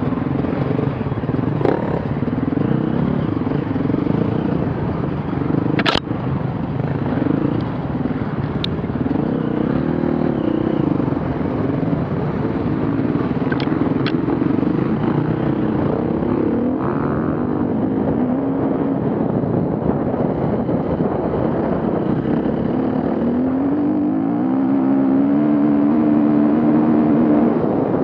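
Off-road vehicle engines running and revving, their pitch rising and falling, with a sharp knock about six seconds in and a louder, held engine note near the end.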